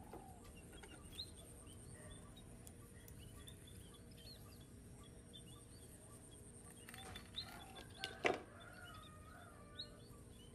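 Birds chirping and calling repeatedly in the background, with a few lower calls about seven seconds in and a single sharp knock about eight seconds in.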